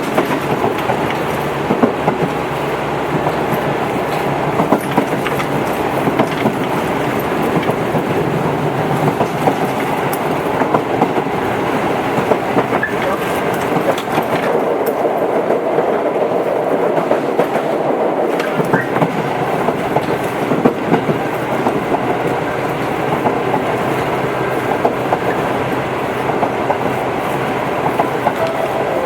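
Tobu 8000 series electric train running at speed: a steady rumble of wheels and motors, with sharp clicks from the rail joints every second or two.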